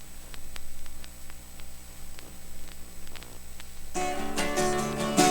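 Vinyl LP surface noise in the silent groove between tracks: scattered clicks and crackle over a faint steady hum. About four seconds in, strummed acoustic guitar starts the next song.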